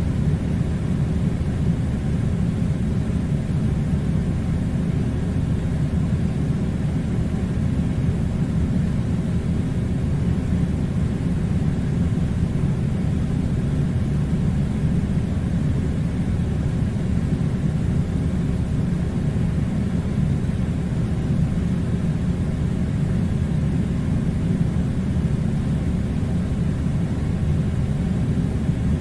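Steady low rumbling noise with no change in level or pitch.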